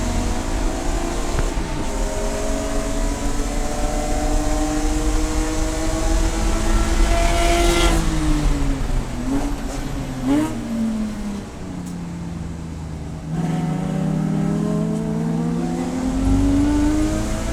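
Race car engine at full throttle, its pitch climbing steadily for about eight seconds, then falling as the car lifts off and brakes, with a couple of short downshift blips. It holds low briefly, then climbs again as the car accelerates near the end.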